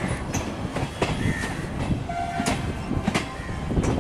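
Indian Railways passenger train rolling on electrified track, heard from on board. The wheels click irregularly over rail joints under a steady rumble of the coach, with a few short high squeaks.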